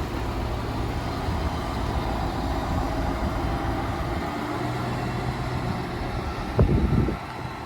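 Diesel engine of a rail vehicle running steadily with a low hum. Near the end comes a brief, louder low rumble lasting about half a second, after which the sound falls quieter.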